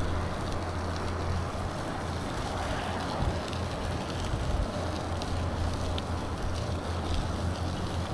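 Steady low wind rumble on the microphone of a bicycle in motion, with tyre and road noise underneath and a few faint ticks.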